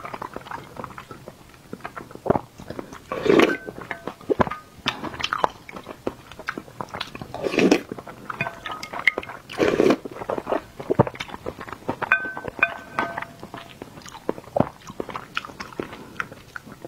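Close-miked chewing of hard-boiled egg: wet mouth clicks and smacks throughout, with several louder, fuller mouth sounds a few seconds apart.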